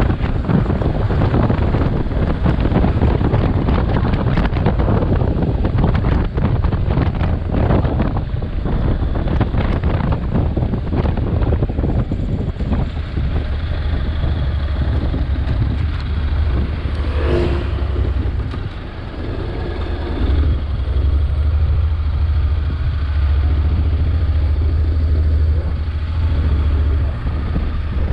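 Motorcycle on the move: engine running with wind and road noise rushing over the microphone, the noise heavier in the first half and a steady low engine drone stronger later. A brief sharp sound cuts in a little past the middle.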